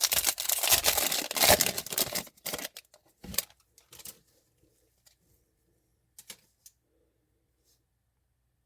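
Trading-card pack wrapper being torn open and crinkled for about two and a half seconds, followed by a few light clicks of cards being handled.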